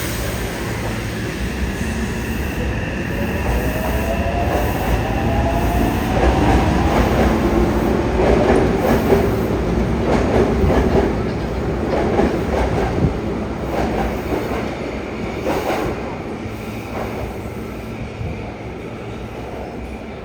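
Subway train with a Mitsubishi IGBT-VVVF traction inverter pulling away: the inverter whine rises in pitch as it accelerates. It is followed by wheels clattering over rail joints as the train gathers speed, and the running noise eases off near the end.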